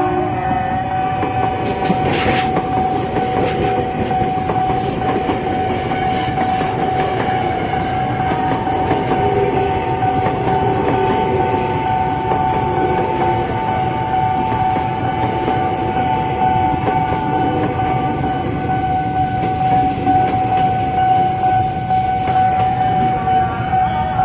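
A train passing over a level crossing, its wheels clattering over the rail joints, under a steady high tone.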